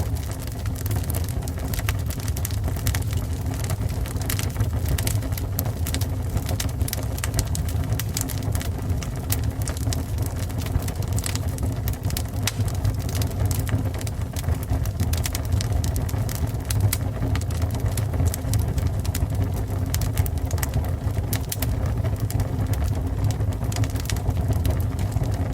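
Fire burning and crackling: a steady low rumble with frequent sharp pops and crackles throughout.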